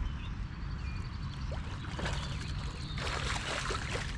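Water splashing, loudest for about a second near the end, as a hooked largemouth bass thrashes at the surface while being reeled to the boat. A steady low rumble runs underneath.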